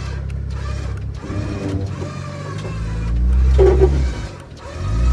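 Jeep engine revving in surges under load, with a motor whine rising and falling, as a stuck Jeep is winched and driven free of a wedged spot on the rock.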